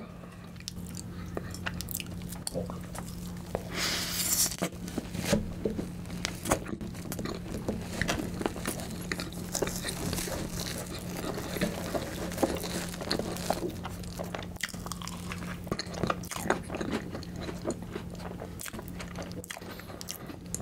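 Close-miked biting, crunching and chewing of a partly frozen Oreo icebox cake, with Oreo cookie pieces crackling among wet mouth sounds, and chopsticks digging into the cake in its plastic tub. The crunching is loudest about four seconds in, over a low steady hum.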